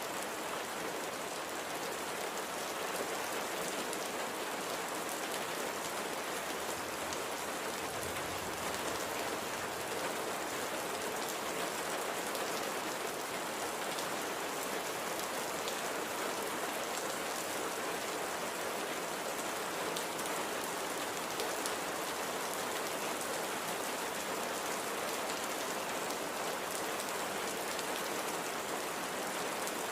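Steady light rain falling on a surface, an even hiss with fine individual drop ticks.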